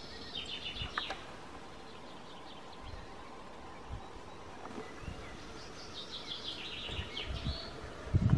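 A songbird sings two short, rapid trilled phrases, one near the start and one about six seconds in, over steady outdoor background hiss. A few faint low thumps come through, and a louder low rumble arrives right at the end.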